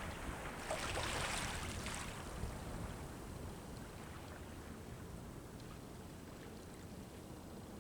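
Sea waves washing onto the shore: one wash about a second in, which fades away into a quieter, steady surf noise.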